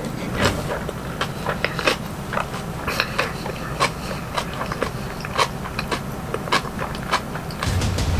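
Close-miked chewing of a large mouthful of dumpling, spicy stir-fried noodles and kimchi, with many small irregular wet clicks.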